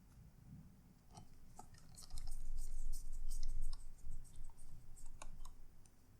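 Small sharp clicks and scrapes of tools and parts being handled on a laptop under repair, a few at first and then a dense run from about two seconds in to about five and a half seconds.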